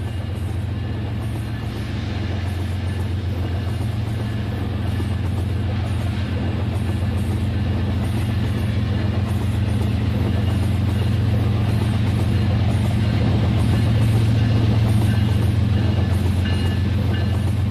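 Rail King battery-powered toy train running on its track: a steady low electric-motor hum with a fine, rapid gear rattle, slowly growing louder until it eases off slightly near the end.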